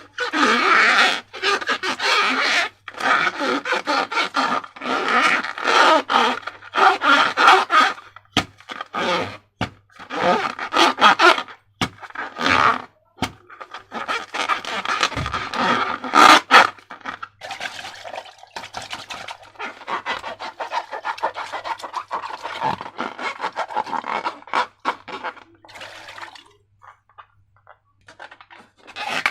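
Slime being worked by hand, squished and mixed in repeated rubbing, squelching strokes a second or two long with short breaks between them, quieter near the end.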